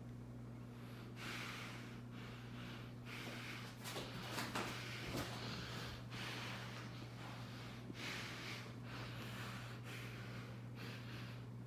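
Breathing close to the microphone, a breath in or out about every second, over a steady low hum from a Monte Carlo ceiling fan running on low speed.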